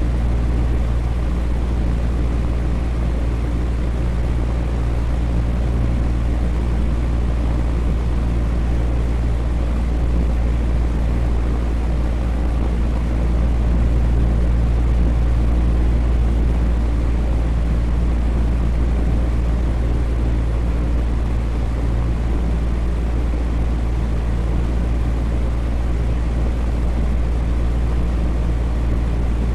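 Electric fan running steadily: a deep, even hum with a whooshing rush of air over it.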